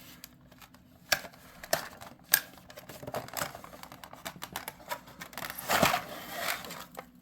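Cardboard box and its plastic packaging being opened and handled by hand: scattered clicks and taps, then a longer rustle about six seconds in.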